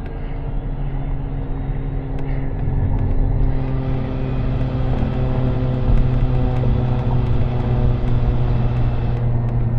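Car driving along, a steady engine hum with road rumble that grows a little louder about three and a half seconds in.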